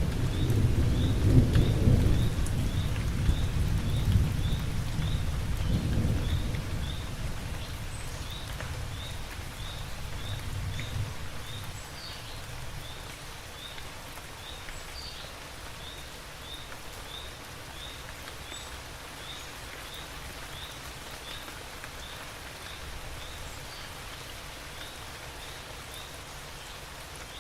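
Steady heavy rain with a roll of thunder rumbling low through the first several seconds and dying away before the middle. A faint high chirp repeats about twice a second throughout.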